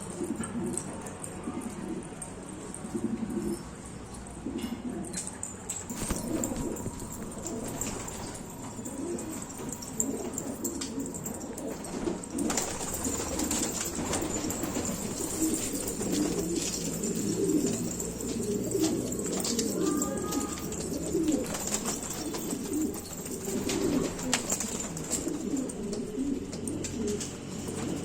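A flock of domestic pigeons cooing, many overlapping calls at once, with a few sharp clicks or taps among them.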